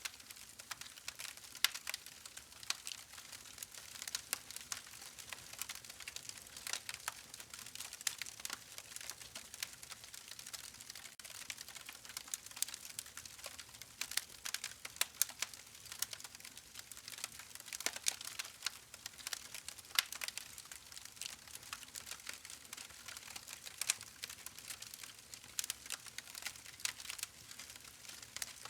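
Campfire burning with a steady stream of small crackles and frequent sharp pops of burning wood.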